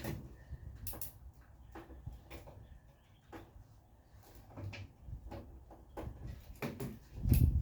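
Irregular clicks and knocks of hand tools on metal as suspension bolts are worked loose, with a louder thump near the end.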